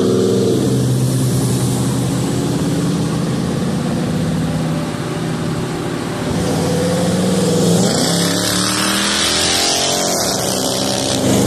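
Car engine running at speed on the road, its pitch climbing twice, about six seconds in and again near the end, as the car accelerates, with road and wind noise rising in the second half.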